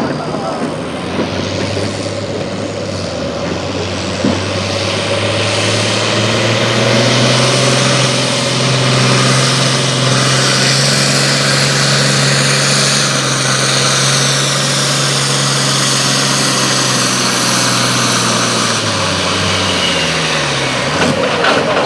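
Pulling vehicle's engine running hard under load as it drags the weight sled down the track. Its pitch climbs over the first several seconds and holds high and steady, then drops as the throttle comes off near the end.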